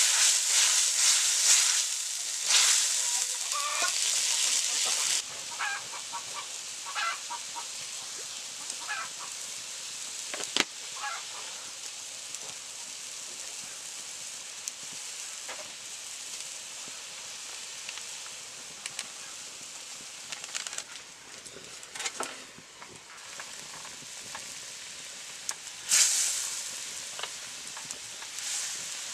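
Chicken gravy sizzling and bubbling in a metal wok. The sizzle is loudest for the first few seconds, settles to a quieter steady hiss, and swells again near the end. There is a single sharp clink about ten seconds in.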